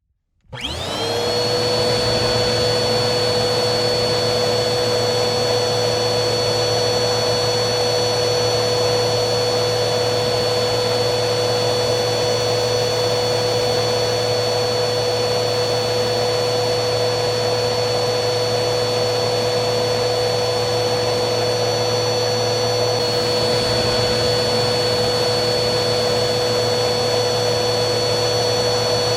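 Vacuum cleaner motor starting up after a brief silence, its whine climbing to speed within about a second, then running steadily with a high whine over rushing air.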